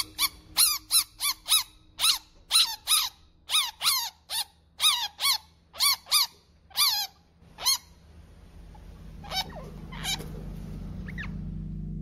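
A bird giving a rapid series of short, squeaky calls that each rise and fall in pitch, about two or three a second. After about eight seconds they thin out to a few fainter calls.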